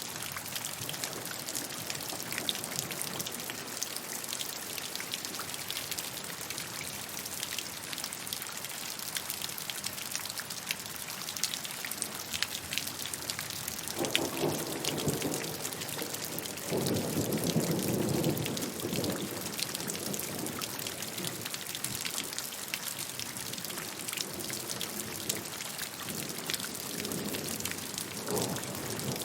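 Steady rainfall, an even hiss thick with individual drops pattering on a surface. About halfway through, a low rumble of thunder swells for several seconds and dies away.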